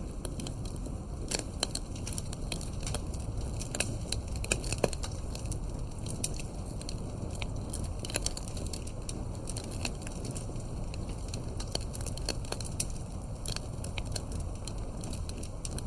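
Campfire crackling: many irregular sharp pops and snaps from burning wood over a steady low rumble of the fire.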